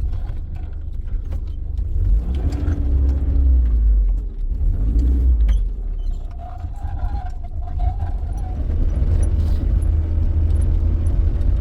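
A motor vehicle on the move, a steady low rumble throughout with faint humming tones above it.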